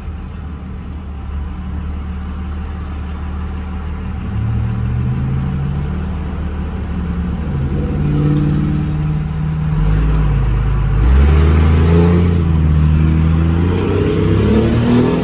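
Diesel pickup truck engine under hard acceleration, heard from inside the cab, its pitch climbing and dropping back several times as it shifts and getting louder about halfway through. It keeps pulling without cutting out, a sign that the fuel problem that used to make it stall under load has been fixed.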